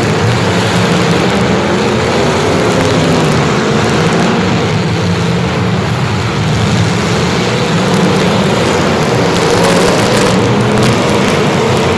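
A vehicle engine running steadily and close, its pitch holding with only slight wavers, over a constant rushing noise.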